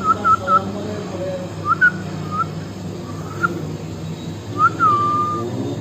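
Puppies whimpering in short, high squeaks. A quick run of them comes at the start and a few more are spaced out after, then one longer whine slides down and holds near the end.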